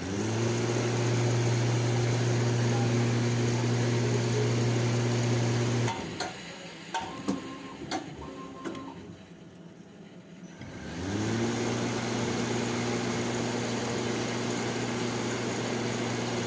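CNC ceiling-fan coil winding machine winding 35-gauge aluminium wire. Its motor spins up with a rising hum, runs steady for about six seconds and stops suddenly, followed by a few clicks. Some seconds later it spins up again and runs steady.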